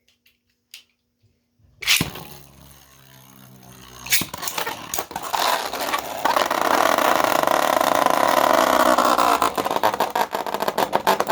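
3D-printed Beyblade spinning tops in a plastic stadium: a sharp snap about two seconds in, then a spinning whir. From about five seconds on, a loud, dense rattle of rapid knocks and scraping as the tops clash with each other and the stadium rails.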